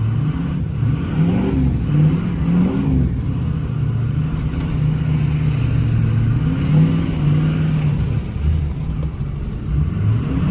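6.0 Powerstroke V8 turbo-diesel in a 1979 Ford F-250 revving up and down several times as the truck is driven hard through snow, with a faint high whistle rising and falling with each rev.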